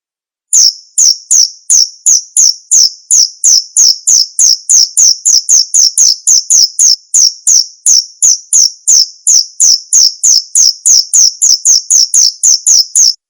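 Male jangkrik bos cricket chirping: loud, sharp, high chirps repeated evenly about three to four times a second. They start about half a second in and stop abruptly near the end.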